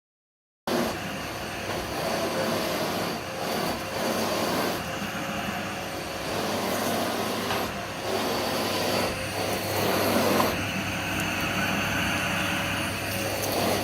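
AEG Clean 6000 vacuum cleaner running steadily with a low hum under a rushing airflow that swells and dips now and then. It starts after a brief silence just under a second in.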